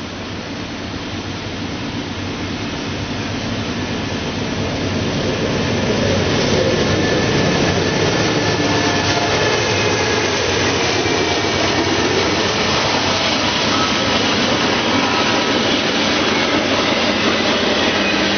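A double-stack intermodal freight train led by two GE Dash 9-40CW diesel locomotives approaches out of the hiss of rain and passes close by. It grows louder over the first six seconds, then the stack cars roll past with a steady noise.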